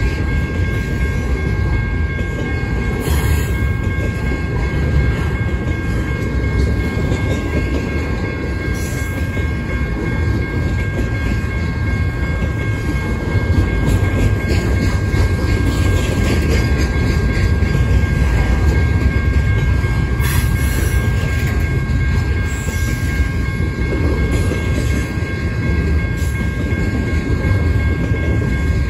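Double-stack container well cars of a freight train rolling past, a steady heavy rumble of steel wheels on rail with clickety-clack from the wheels over rail joints. A few faint steady high tones run underneath.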